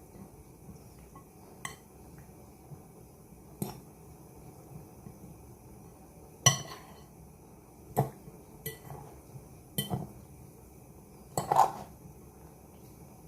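A cooking utensil knocking and clinking against a pan as chicken pieces are stirred, in separate sharp knocks every second or two, the loudest about halfway through and again near the end.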